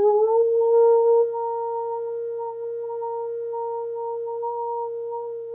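A woman's voice toning one long, near-pure note, sliding up slightly into pitch at the start and then held steady, a little softer after about a second.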